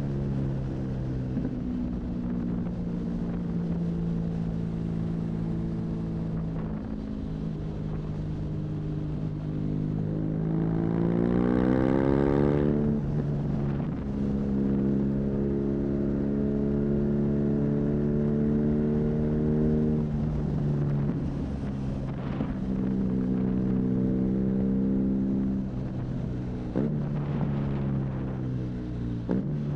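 BMW R nineT's boxer twin through an aftermarket Arrow high-mounted exhaust, running on the road at steady throttle. About ten seconds in it revs up under acceleration, then drops back at a gear change. Near the end the revs dip and rise a few times with further shifts.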